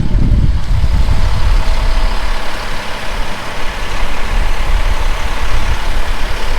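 Strong wind gusting over the microphone: a loud, uneven low rumble.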